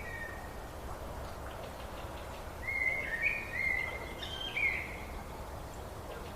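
A songbird singing a short phrase of clear, mostly level whistled notes, about seven of them, near the middle, with a brief whistle at the very start. Steady low background noise runs underneath.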